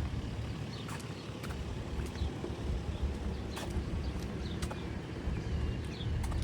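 Outdoor street ambience: a steady low rumble with sharp clicks about once a second and a few short high chirps.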